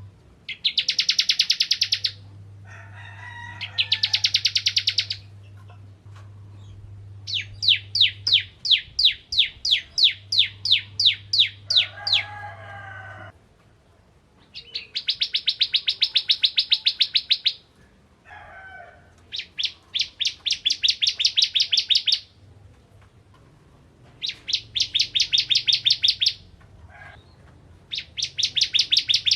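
Ciblek kristal (a prinia) singing in fast trills of sharp, high, evenly repeated notes, each burst a few seconds long and one much longer in the middle, with softer, lower chirps between the bursts. A steady low hum runs underneath.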